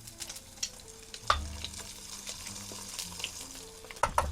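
Eggs frying in hot oil in a pan, sizzling and crackling, with a sharp knock about a second in and a couple more near the end.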